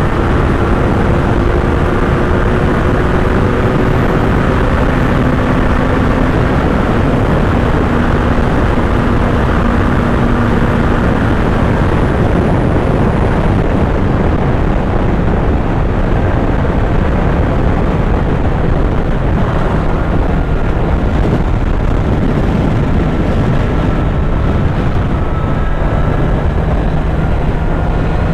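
Kawasaki Z900's inline-four engine running on the move, its pitch drifting slowly with speed, under heavy, steady wind noise on the microphone.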